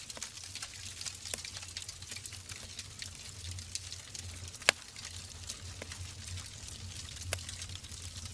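Wood fire burning in a fireplace: logs crackling with a steady stream of irregular small snaps over a low, even rumble, and one sharp, much louder pop a little past halfway.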